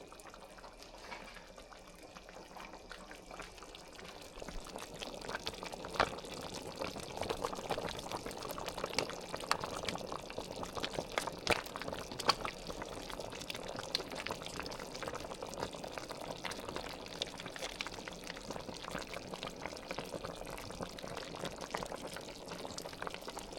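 Liquid pouring and bubbling in a pot of chicken curry as coconut milk goes in, growing fuller about four seconds in, with a few sharp light clicks.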